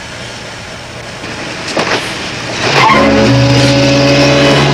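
A car engine revving hard at a steady pitch as a car pulls away fast, starting suddenly about three seconds in and much louder than what came before.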